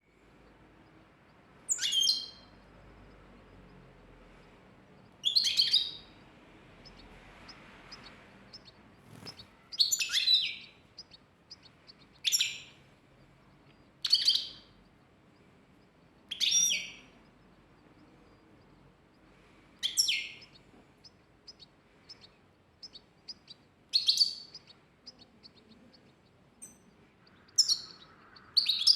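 A small songbird calling: short, high chirps, each a quick downward sweep, repeated about every two to four seconds, about ten in all, over a faint steady hiss.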